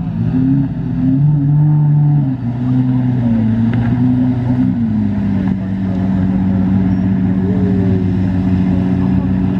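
Car engine running while driving. Its pitch shifts up and down a few times in the first five seconds, then settles into a steady hum.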